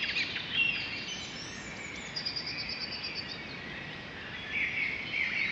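Birds singing in a nature ambience bed: a rapid trill of high chirps about two seconds in, and more short calls near the end, over a steady background hiss.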